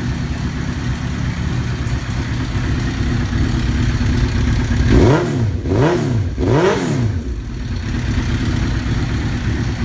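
2002 Suzuki GSX-R1000's inline-four engine idling through a Yoshimura carbon-fibre slip-on exhaust. About five seconds in it is blipped three times in quick succession, the revs rising and falling each time, then it settles back to a steady idle.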